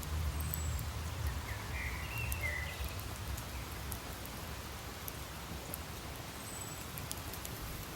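Campfire burning: wood crackling with scattered sharp pops over a steady hiss, with a low rumble that fades about three seconds in and a few short squeaky hisses about two seconds in.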